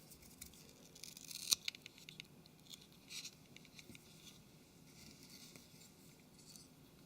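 Faint clicks and light scratching of small phone parts being handled and seated in a smartphone housing, with one sharper click about a second and a half in.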